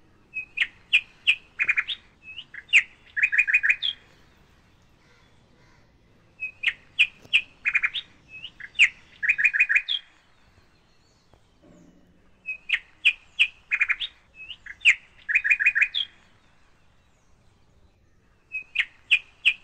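A bird singing: a phrase of sharp, high chirps and quick trills about three and a half seconds long, repeated four times about every six seconds, the last starting near the end.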